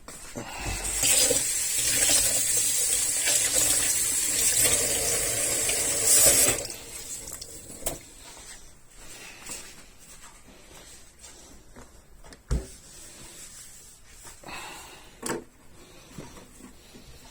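Water running from a tap for about six seconds, then shut off sharply. A few light knocks and clinks follow.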